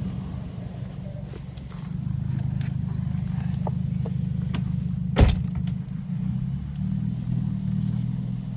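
Nissan Sentra B17 engine idling steadily through a muffler-delete exhaust, a low drone, with a few small clicks and one loud thump about five seconds in.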